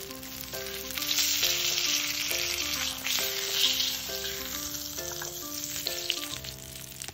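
Flour-coated tofu sizzling in hot oil in a cast iron skillet while a spatula slides under it to flip it, the sizzle growing louder about a second in and easing near the end. Light background music plays throughout.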